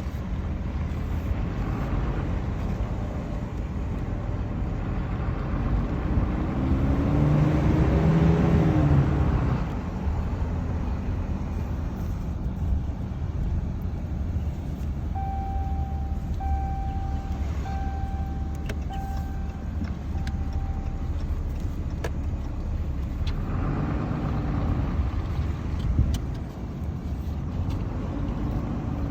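2022 Ram 2500 pickup running with a steady low rumble. Twice, a pitched whine rises and falls over a few seconds; it is the unexplained 'weird noise'. In between comes a series of short beeps, about one a second.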